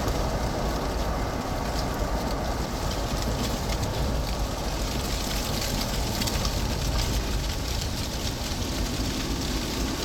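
Strong gusty wind roaring steadily around the vehicle and buffeting the microphone, with a deep rumble and a few faint ticks of blown debris.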